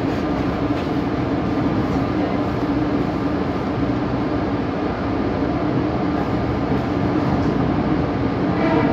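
Long Island Rail Road electric train moving past close by: a steady rumble of wheels and motors with a constant low hum.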